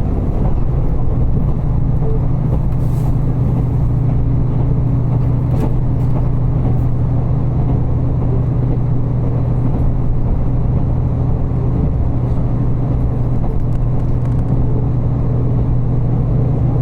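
Steady low drone of a diesel railcar under way, heard from inside the carriage: engine hum over wheel and rail rumble, with a few faint ticks.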